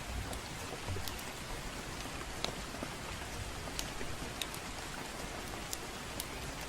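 Steady gentle rain, with scattered sharp crackles and pops from a wood fire, about one or two a second, at irregular intervals.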